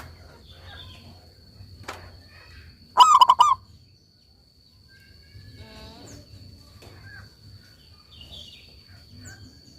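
Zebra doves (perkutut) calling: a short, loud run of quick rolling coo notes about three seconds in, among scattered softer bird calls. A steady high-pitched whine runs underneath.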